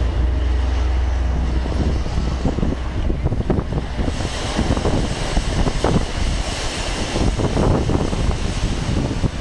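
Strong gusting wind of 50+ mph blasting the microphone: a loud, continuous low rumble with irregular buffeting swells.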